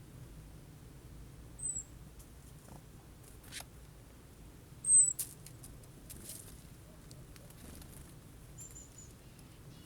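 A small bird's thin, very high call notes: a short slurred note about two seconds in, a louder one at about five seconds, and a quick run of notes near the end, with a few light taps between them.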